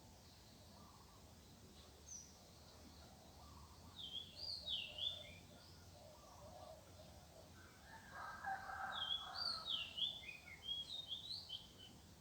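A songbird singing short, swooping whistled phrases, once about four seconds in and again from about nine seconds. A rooster crows for about two seconds from about eight seconds in, under the second phrase.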